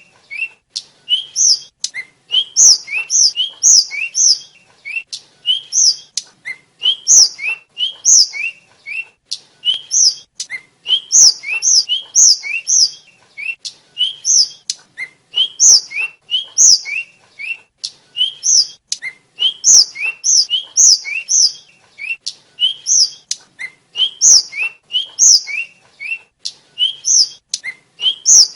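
Tledekan (sulingan) flycatcher singing: quick clusters of short, clear whistled notes, high falling slurs alternating with lower rising ones, repeated over and over with sharp clicks between phrases.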